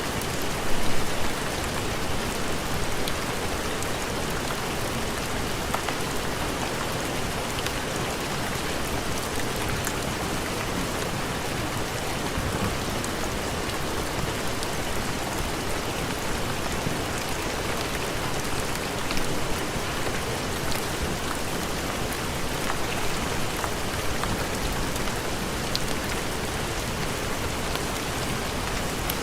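Heavy rain falling steadily in an even hiss, with scattered faint ticks of drops and a brief louder surge about a second in.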